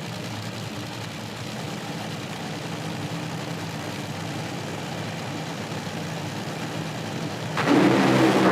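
Drag racing car engines idling at the starting line with a steady rumble. About seven and a half seconds in they go suddenly to full throttle as the cars launch, much louder.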